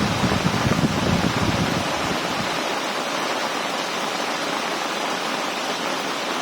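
Heavy rain pouring steadily. A low rumble sits under it for the first two seconds or so, then dies away.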